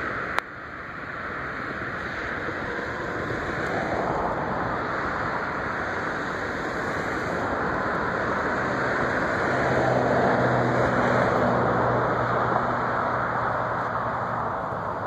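Jet aircraft engine noise: a steady rush that builds over the first few seconds and peaks about ten seconds in, with a low hum joining in the second half before it eases. A single sharp click sounds just after the start.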